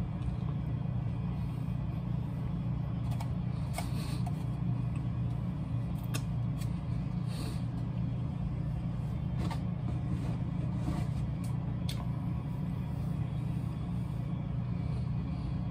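Someone chewing a chicken sandwich, with a few short wet mouth clicks and smacks scattered through, over a steady low hum.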